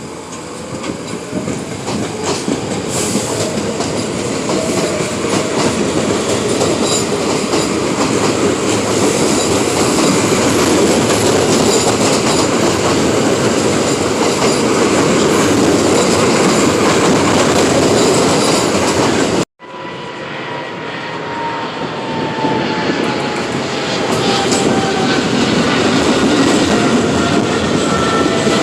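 R46 subway train running loud on the rails with wheels clattering, a motor whine rising in pitch at the start. After an abrupt cut about two-thirds in, a train runs on with a whine that slowly falls in pitch.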